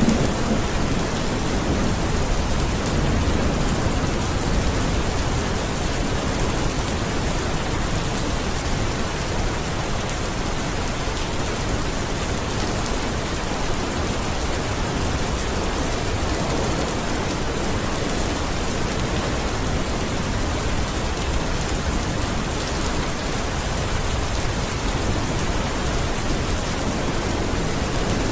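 Steady, even rainfall, with a low rumble of thunder dying away in the first few seconds.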